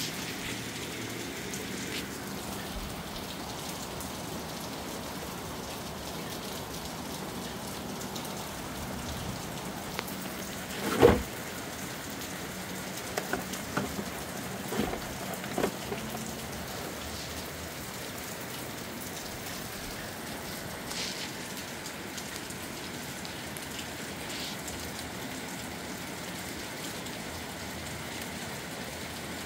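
Steady rain falling. One loud knock about eleven seconds in, followed over the next few seconds by several lighter clicks and taps.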